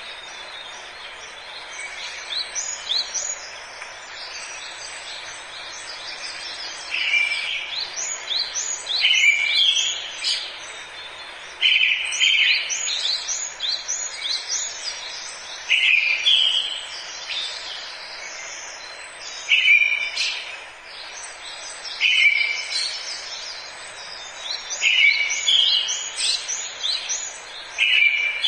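Forest birds singing. One bird repeats a short call every three to four seconds from about a quarter of the way in, over many higher chirps from other birds and a steady background hiss.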